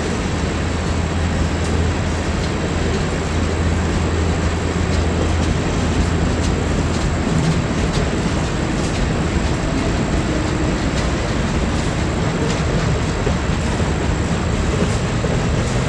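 Freight train rolling past, a steady loud rumble and rolling noise with faint scattered clicks. A low drone is strong for about the first six seconds, then fades.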